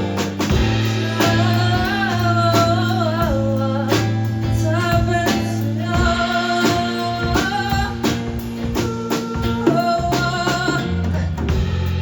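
A band playing a song live: a voice singing a melody over guitar, with low sustained bass notes and a regular beat.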